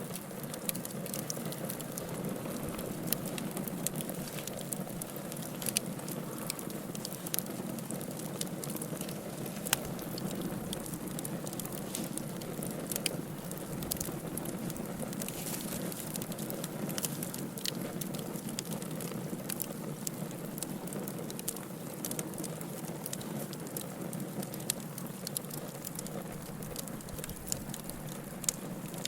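Wood fire crackling in a fireplace: a steady low hiss of burning with frequent sharp pops and snaps.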